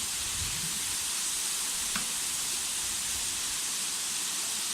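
Steady rush of a small mountain waterfall and creek cascading over rocks, an even hiss of falling water with no let-up. A faint brief tick about two seconds in.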